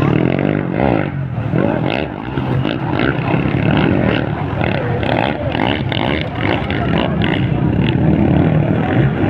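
Motocross bikes' engines revving, pitch rising and falling as riders work the throttle around the track.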